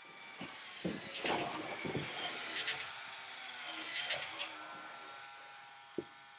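LEGO Technic crane's Power Functions motor whirring steadily as it drives the stabilizers through the gearing, with three bursts of clicking and rattling and a single sharp click near the end.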